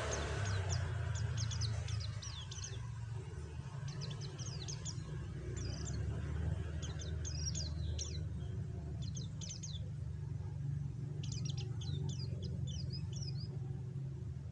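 White-eye (pleci) twittering in short bursts of rapid, high chirps, five or so bursts with pauses between, over a steady low rumble.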